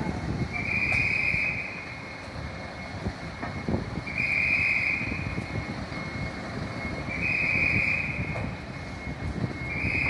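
A fire vehicle's electronic warning tone: a flat, high-pitched beep about a second long, repeating roughly every three seconds, with a fainter steady tone between the beeps over a low engine rumble.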